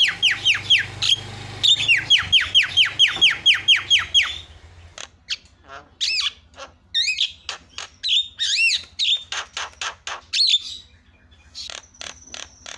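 Javan myna (jalak kebo) calling: two runs of quick downward-sliding notes, about five a second, then a string of varied chirps and whistles, with a steady high whistle near the end.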